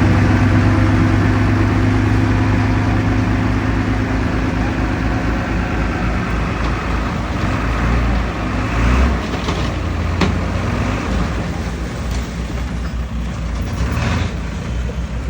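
Heavy diesel engine of earthmoving machinery running under load, a steady low drone for about five seconds that then turns rougher and a little quieter. A few sharp metallic knocks come partway through and near the end.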